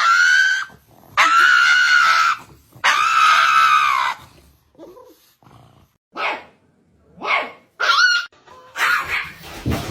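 A dog crying out in high-pitched calls: a rising cry at the start, two long held howls of about a second each, then a string of short yelps.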